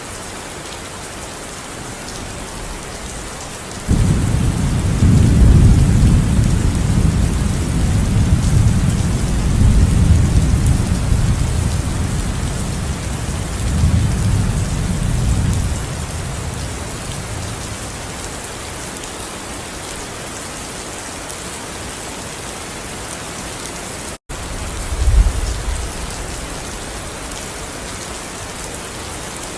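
Steady rain hissing down, with a rolling peal of thunder that breaks in suddenly about four seconds in and rumbles for around ten seconds before dying away. The sound cuts out for an instant later on, and a brief low rumble of thunder follows.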